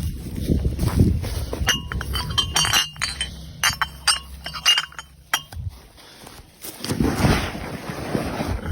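Glass bottles and jars clinking and knocking against each other as litter is picked up, a quick run of sharp ringing clinks in the middle, with rustling handling noise before and after.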